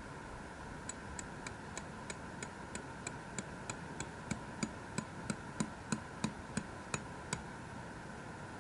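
A quick steady run of about twenty light hammer blows, roughly three a second, growing louder partway through and then stopping.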